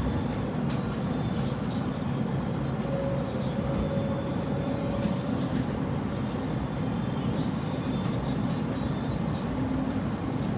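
Steady rumble of a moving passenger train heard from inside the car, its wheels running on the rails.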